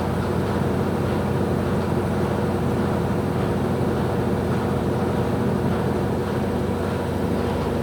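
Electrolux LF75 washing machine in its final spin cycle, its motor and drum running with a steady hum.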